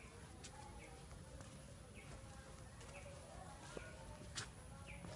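Faint outdoor ambience with a bird repeating a short high call about once a second, over faint distant voices, and one sharp click a little before the end.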